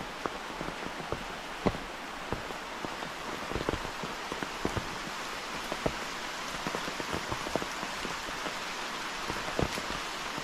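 Steady rain falling, with a constant hiss and many separate heavy drops striking close by at irregular moments.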